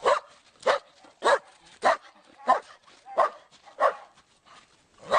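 A dog barking repeatedly in an even rhythm, a little under two barks a second, with a pause of about a second before a last bark near the end.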